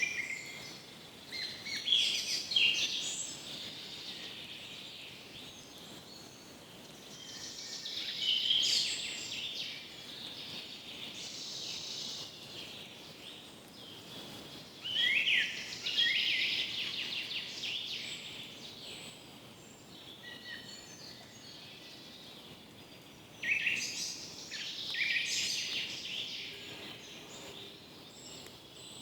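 Forest birds singing: bursts of fast, high trilled song every several seconds, over a faint steady background hiss.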